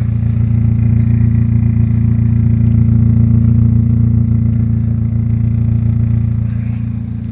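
2003 Kia Spectra GSX's four-cylinder engine idling, heard as a steady low exhaust hum from the tip. It swells slightly in the middle and eases off near the end.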